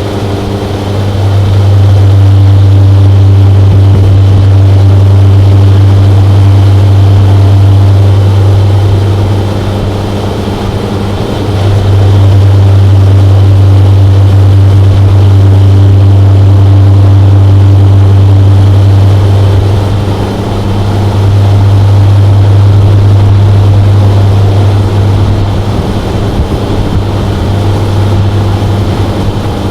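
BMW K1100LT motorcycle's inline four-cylinder engine running at a steady cruise, a low, even drone that eases off briefly a few times as the throttle is rolled back.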